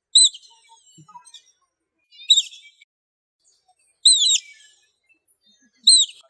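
Otter calling: four short, high-pitched squeaking chirps, each falling in pitch, spaced just under two seconds apart.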